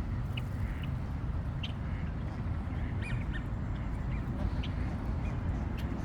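Birds calling outdoors: scattered short, high calls over a steady low rumble.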